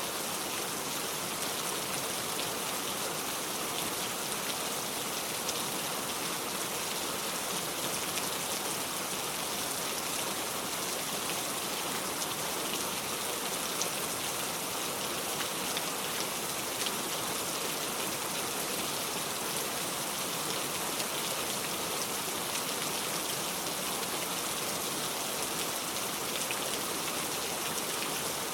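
Steady rain falling: a dense, even hiss with many small scattered drop ticks, unchanging throughout.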